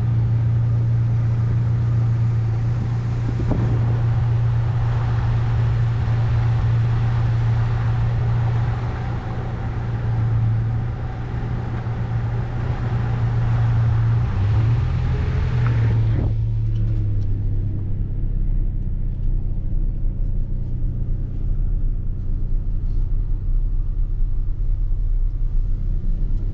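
Road vehicle running along with a steady low engine note and a broad rush of road and wind noise; about fifteen seconds in the engine note drops a little and the rushing noise falls away, as the vehicle slows.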